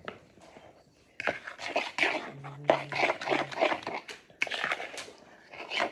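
Pancake batter being stirred in a bowl: irregular clicking and scraping of the utensil against the bowl, starting about a second in, with a brief low hum about halfway through.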